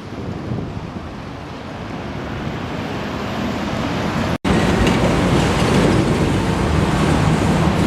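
Street traffic and vehicle engines running. The sound cuts out for an instant about halfway through, then returns louder with a steady low engine drone.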